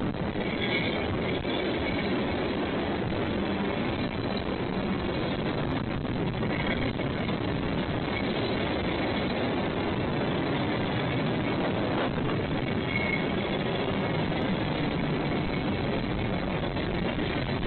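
Train rolling past on the rails, a steady rumble of wheels and cars.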